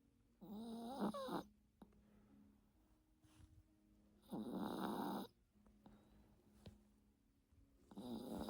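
Yorkshire terrier snoring in its sleep: three snores about four seconds apart, each lasting about a second.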